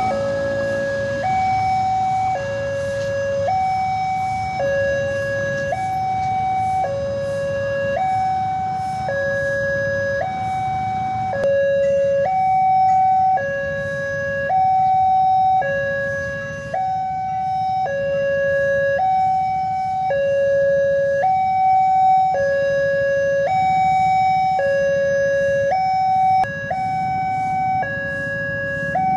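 Railway level-crossing warning alarm sounding continuously, an electronic two-tone signal alternating between a lower and a higher note about once a second, warning that a train is approaching and the barrier is down. A low steady rumble of waiting traffic lies underneath.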